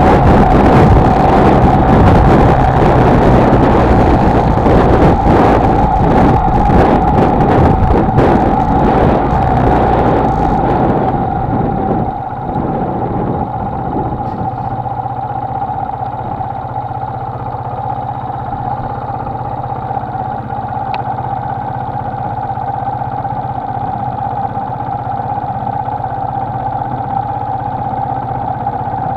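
Honda XLR125R motorcycle engine running while riding, with wind buffeting the microphone. About eleven seconds in the wind drops away and the engine settles to a steady idle.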